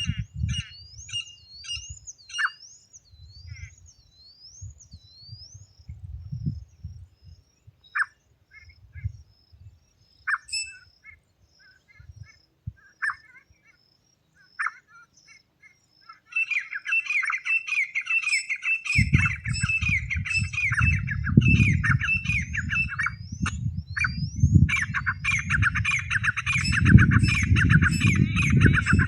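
Francolin (teetar) calls: scattered short shrill notes with quick rising whistles, then a dense, rapid run of repeated calls from a little past halfway. A low rumbling noise runs under the calls for the last ten seconds.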